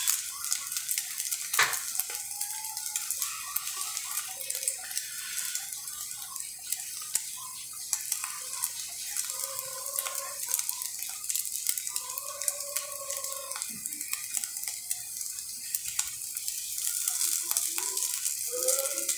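Egg frying in oil in a frying pan: a steady sizzle with fine crackling.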